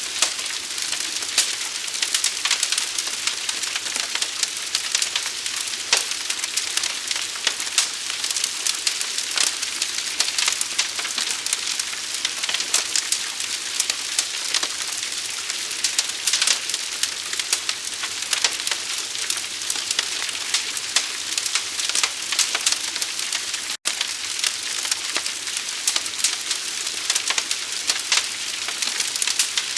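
Fire crackling continuously, dense fast pops and snaps over a steady hiss. The sound cuts out for an instant about four-fifths of the way through.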